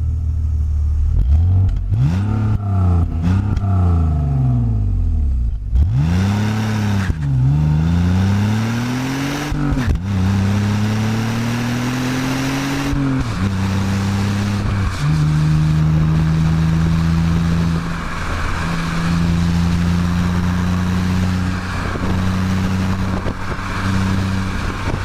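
BMW E46 330i's 3.0-litre straight-six on its stock exhaust. It is revved in a few quick blips, then pulls through the gears, its pitch rising and dropping sharply at each shift of the manual gearbox. From about halfway through it settles to a steady cruise with road noise.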